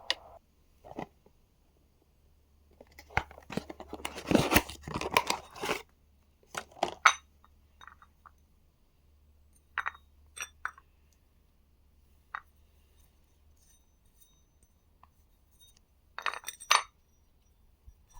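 Hand tools and metal parts clinking, rattling and clicking in short bursts as an accessory-belt pulley is unbolted and swapped on the Suzuki J20 engine, with the engine not running. The busiest, loudest rattling comes a few seconds in, then there are scattered single clicks and a brief flurry near the end.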